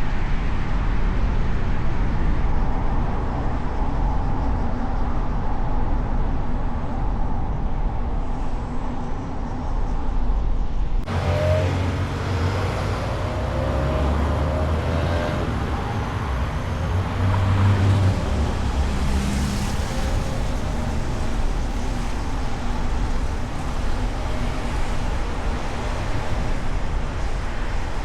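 City traffic and road noise heard from a moving car: a steady rush of tyre and engine noise. About eleven seconds in, the sound changes, with a heavier low engine rumble and a short rising engine note.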